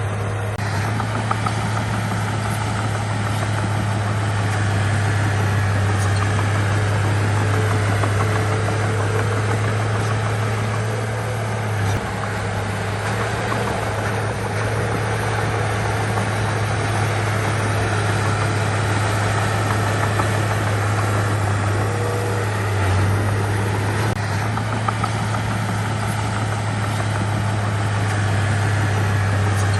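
Diesel engine of heavy earthmoving machinery running steadily, with a deep, constant hum and mechanical noise over it.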